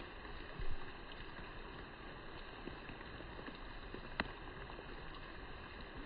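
Steady outdoor background hiss, with a short low thump just under a second in and a single sharp click about four seconds in.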